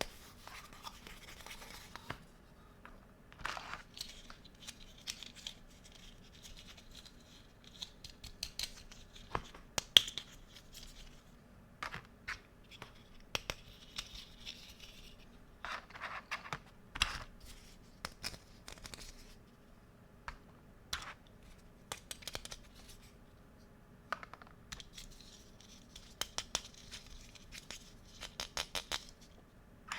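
Hands handling small plastic toy kitchen pieces and packaging: irregular light clicks, taps and short rustling scrapes, with quick runs of clicks near the end.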